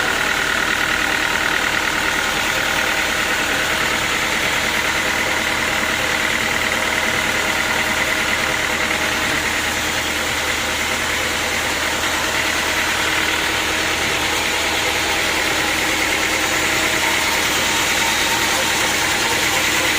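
Sawmill machinery running steadily: a continuous motor noise with a steady high whine over it.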